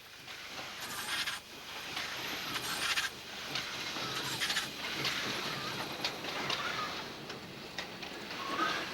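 Narrow-gauge steam locomotive hissing steam, with louder bursts of steam about a second in and again around three seconds, and scattered clanks.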